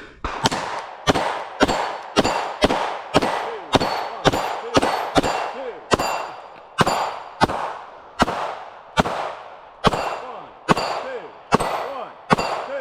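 A steady string of gunshots, about two a second, from several shooters firing at steel targets. Thin metallic ringing from the struck steel follows the shots.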